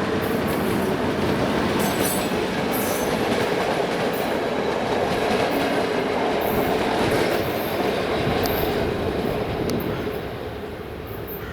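A train passing close by: a steady rumble and clatter of wheels on rails, with short sharp clicks over it. It fades over the last couple of seconds.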